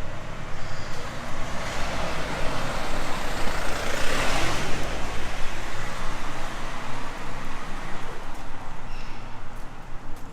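A road vehicle driving past: engine and tyre noise swell to a peak about four seconds in, then fade, over a steady low engine hum.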